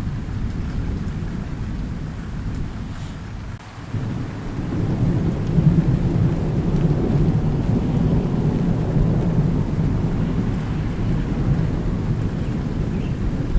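Thunderstorm with steady rain: low rolling thunder rumbles throughout, dips briefly, then swells into a louder, longer rumble about four seconds in.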